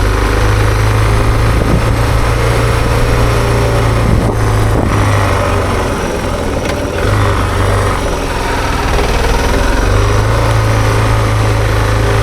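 Suzuki DR650's single-cylinder four-stroke engine running as the motorcycle is ridden, its low note easing off briefly a couple of times, around four and seven seconds in.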